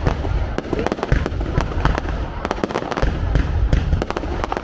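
Fireworks display: a dense, continuous run of sharp bangs and crackles from bursting shells, several a second, over a steady low rumble of booms.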